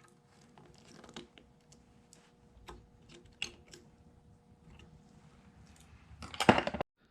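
Snap ring pliers working a circlip out of a hub bearing bore: scattered small metallic clicks and scrapes, then a louder clatter about six and a half seconds in.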